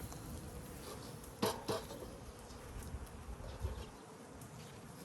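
Honeybees buzzing around an opened backyard hive, with two sharp knocks close together about a second and a half in.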